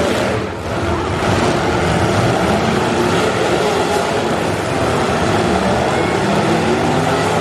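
Several demolition derby cars' engines running and revving together, loud and steady.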